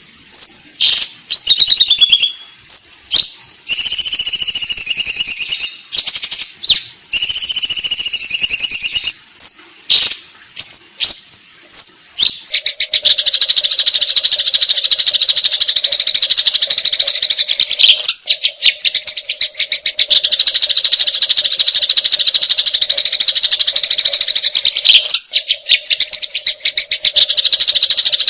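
Eurasian tree sparrows' fighting calls, loud and high-pitched. At first they come as repeated chirps in short bursts with brief gaps. About halfway in they run together into one continuous, rapid chatter.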